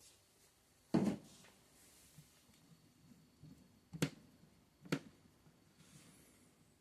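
A single knock about a second in, then two sharp clicks just under a second apart, against quiet room tone.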